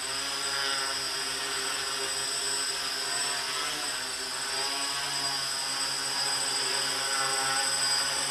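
X666 quadcopter's electric motors and propellers buzzing steadily as it hovers, the pitch wavering up and down as the motors keep correcting; it grows a little louder near the end as the craft comes closer.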